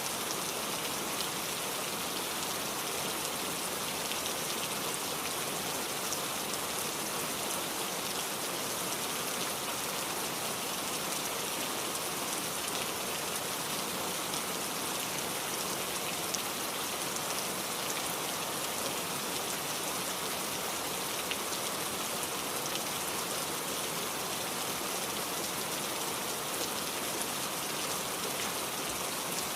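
Steady rain falling on a surface, an even hiss of many small drops with faint scattered patters.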